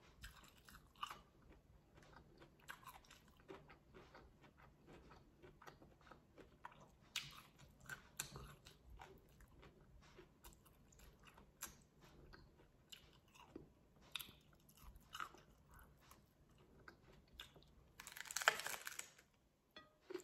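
Close-up chewing and crunching of a lettuce-wrapped taco: many small crisp crunches, with one louder, longer crunch near the end as a big bite is taken.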